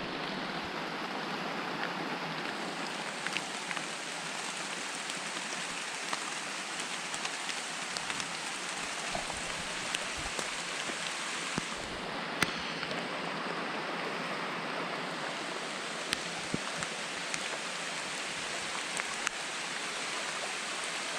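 Heavy tropical-storm rain falling steadily, with many single drops ticking sharply on nearby surfaces.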